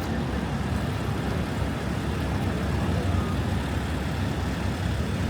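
Steady low rumble of a city street in strong wind: traffic noise and wind on the microphone together, with no distinct events.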